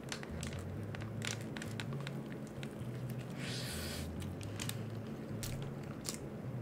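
Close-miked chewing of a garlic-bread egg sandwich: soft, wet squishing with many small clicks and crunches of toasted bread, and a short crackling burst about three and a half seconds in.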